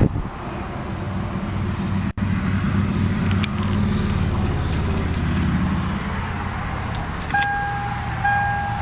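A 2002 Lexus IS300's 3.0-litre inline-six catches right away and settles into a steady idle. In the last second or two, a repeating electronic warning chime from the car sounds over the idle.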